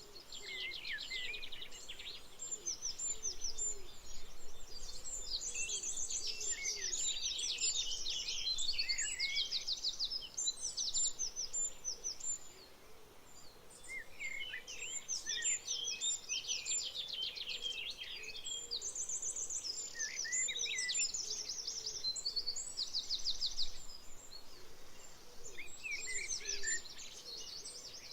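Several songbirds singing and chirping together in a dense chorus of overlapping calls and rapid high trills, with a brief lull about halfway through.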